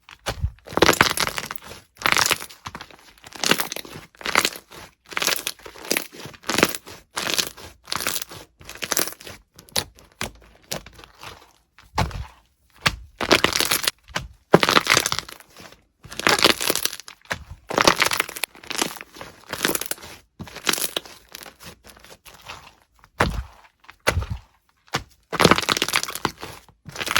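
Crunchy slime being pressed and squeezed by hand: a long run of crackling, crunching presses, roughly one a second, with short pauses between them.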